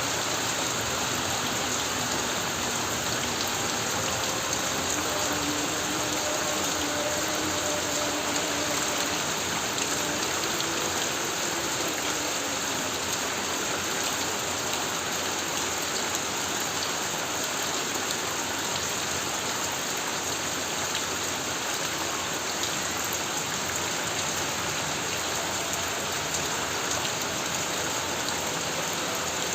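Heavy rain falling steadily on a tin roof, a dense even hiss without breaks.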